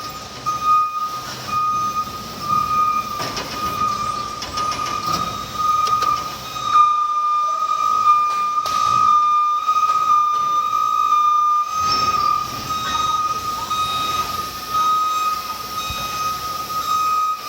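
Electric reach truck working, with a steady high-pitched whine or warning tone that runs on without a break over a low mechanical rumble.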